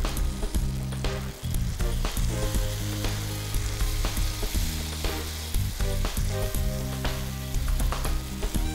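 Mashed eggplant and egg sizzling in hot mustard oil in a frying pan while a spatula stirs it, with irregular scrapes and taps against the pan.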